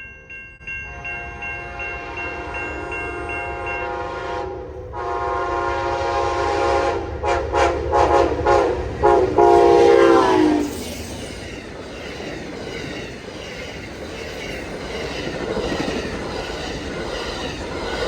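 Amtrak passenger train's multi-chime air horn sounding as the train approaches, louder about four seconds in and then broken into several short blasts. The horn cuts off about ten seconds in, and the train rushes past with wheels clacking over the rail joints.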